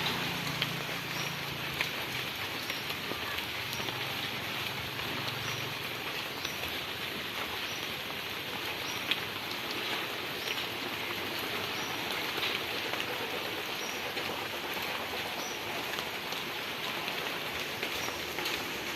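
Steady rain falling, with scattered sharper drop ticks. A low hum underneath stops about six seconds in.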